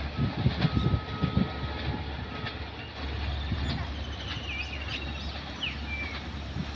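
Passenger train's LHB coaches rolling past, wheels knocking over rail joints in a quick cluster for the first second and a half, then a steady rumble. Birds chirp briefly near the middle.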